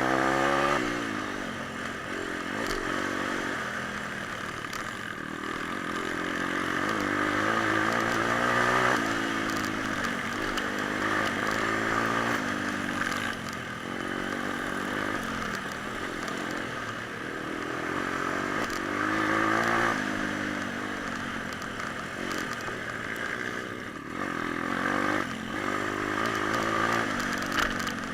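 Pit bike engine running under load while being ridden, its pitch repeatedly climbing as it revs up and dropping back as the throttle is eased or it shifts, about half a dozen times.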